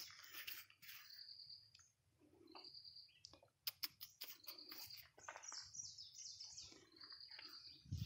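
Faint bird calls: short high chirps recurring throughout, with a few sharp clicks about three and a half seconds in.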